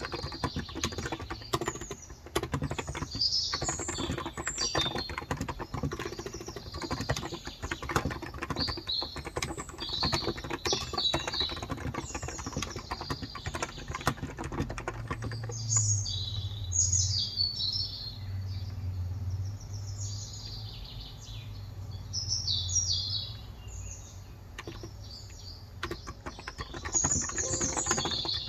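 Typing on a Cox Endeavor electro-capacitive (Topre-style) tenkeyless keyboard with 35 g switches: fast, steady key presses that stop about halfway through and start again near the end. Small birds chirp throughout and stand out in the pause.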